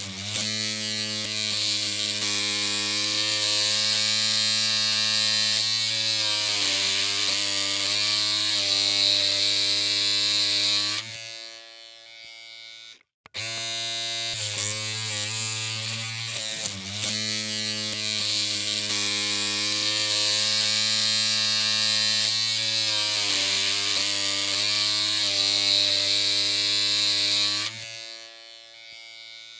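Electric hair clippers humming with a steady low buzz and a bright hiss. About eleven seconds in the buzz drops quieter, stops briefly and starts again, and the same fade and stop comes again near the end.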